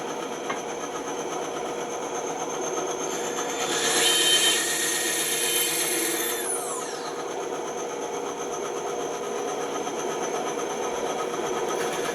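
Bandsaw running with a steady hum while its blade cuts wood, the cutting loudest and hissiest about four seconds in before easing off.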